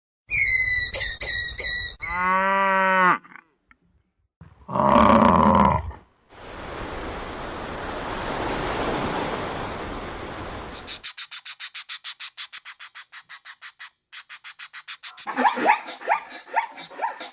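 A run of different animal calls edited back to back. First come high chirps, then a low drawn-out call and a short loud call about five seconds in. A stretch of steady hiss follows, then rapid rhythmic clicking and a string of short, pulsed calls near the end.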